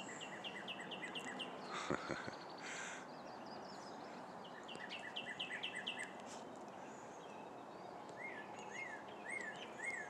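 Songbirds singing over a steady outdoor hiss: a quick run of repeated chirps at the start, another run around the middle, and four slower rising-and-falling notes near the end.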